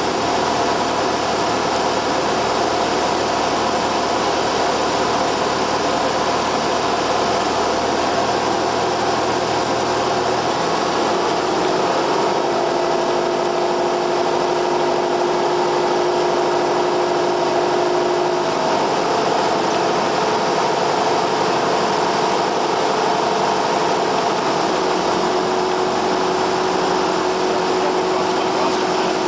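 Cessna 172R's four-cylinder Lycoming engine and propeller running steadily, with the engine note stepping to a new pitch about eleven seconds in and shifting again twice later on.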